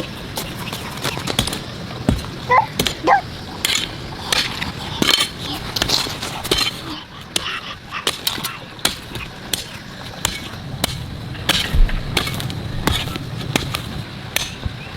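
Irregular clattering: many short clicks and knocks, some close together, over a steady background noise.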